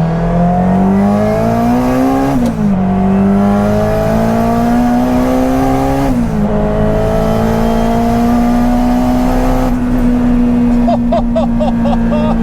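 Toyota MR2's turbocharged four-cylinder Honda K20 engine with a K24 head accelerating hard at full throttle, its pitch rising through the gears with two quick upshifts about two and a half and six seconds in. The pitch then climbs more slowly and holds nearly steady near the end.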